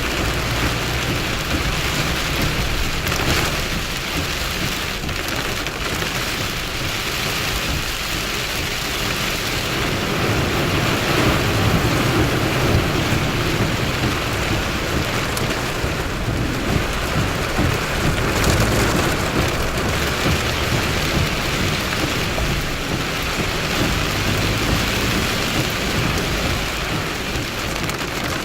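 Heavy rain falling steadily during a thunderstorm, with low rumbles of thunder swelling now and then.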